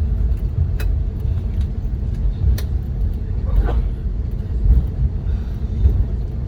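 Steady low rumble inside an Airbus A321neo's cabin as it taxis after landing. A few sharp clicks come through about one second and two and a half seconds in.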